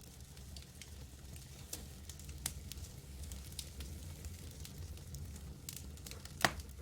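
Wood campfire crackling: scattered sharp snaps and pops over a low steady rumble, with one louder pop near the end.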